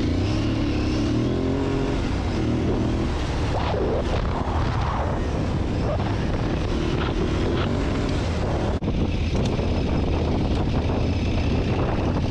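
Aprilia Tuareg 660's parallel-twin engine running on the move over gravel, its pitch wavering with the throttle in the first few seconds, over a steady hiss of wind and tyres.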